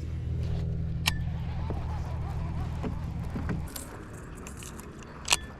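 A steady low motor hum that stops a little before four seconds in, with two sharp clicks, one about a second in and one near the end.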